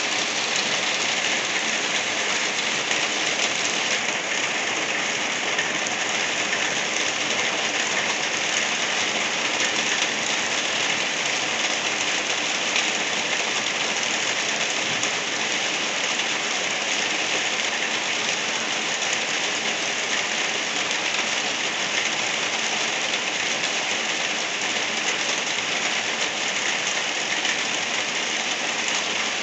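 Rain falling steadily, an even hiss with no breaks or changes.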